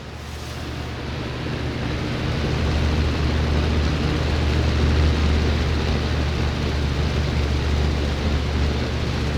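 A 1984 Lakewood P223 box fan running: a steady rush of air over a low motor hum. It grows louder over the first two or three seconds, then holds steady.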